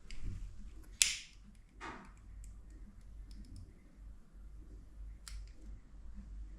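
Handling noises: a sharp click about a second in, a short brushing swish, and a few lighter clicks over a low steady hum.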